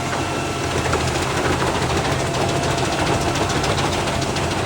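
Large wood chipper's engine running steadily, with a dense mechanical noise over a low engine hum.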